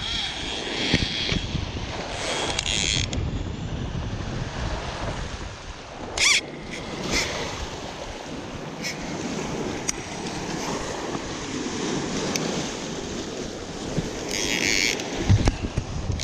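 Wind buffeting the microphone at the water's edge, an uneven low rumble, with a few short high-pitched bursts near the start, about six seconds in and near the end.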